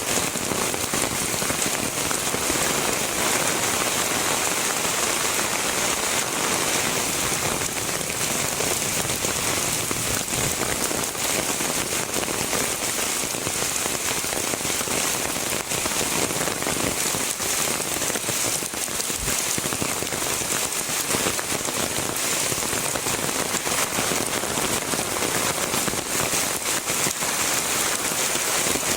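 Heavy rain falling steadily, a dense hiss of drops with many fine patters on hard surfaces.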